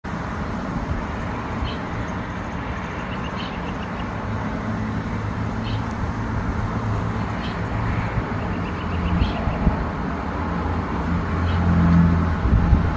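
Steady low rumble of road traffic, with faint short high chirps recurring every second or two.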